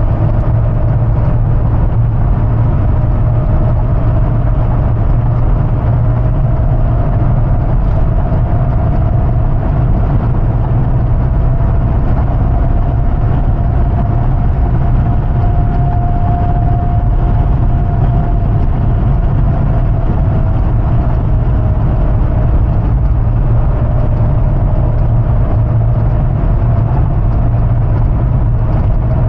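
The 6.0-litre V8 of a 2005 Hummer H2 running steadily under way, with a deep rumble and road noise. Over it a steady whine rises slightly in pitch until about halfway through, then eases back down.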